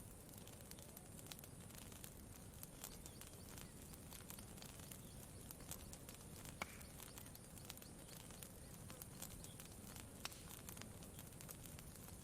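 Campfire crackling faintly: scattered small pops and snaps, one sharper pop about six and a half seconds in, over a low steady background hiss.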